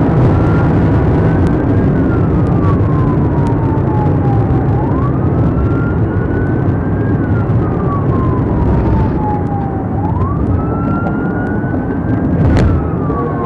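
Police car siren on the wail setting, climbing quickly and then falling slowly in a cycle of about five seconds, over heavy engine and road noise. A single sharp knock comes near the end.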